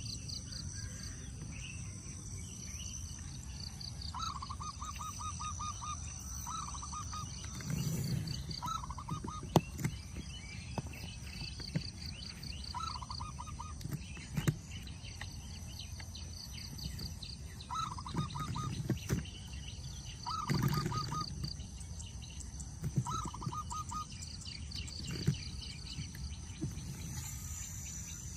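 Birds calling outdoors: short, rapid trills repeating every few seconds over a steady high hiss, with scattered clicks and a few dull knocks.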